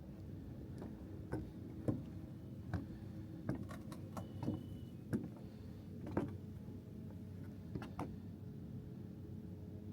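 Footsteps on a wooden boardwalk: irregular hollow knocks, about one every half-second to second, over a steady low background.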